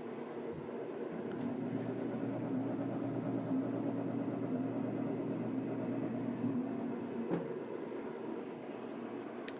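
Wood pellet grill running with a steady mechanical hum from its fan. A second, lower motor hum joins about a second in and stops after about six seconds, and a single click follows.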